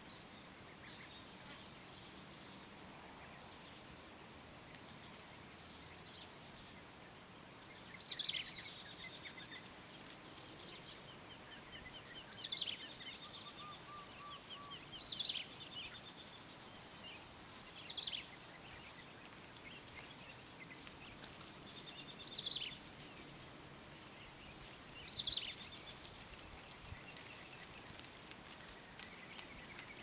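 A bird calling six times, every three to four seconds. Each call is a sharp falling note followed by a quick dry chatter, over a steady background hiss.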